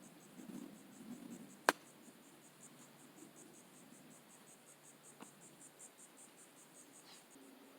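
Insects chirping faintly in a steady high-pitched pulse, about five chirps a second, like crickets. A single sharp click about two seconds in.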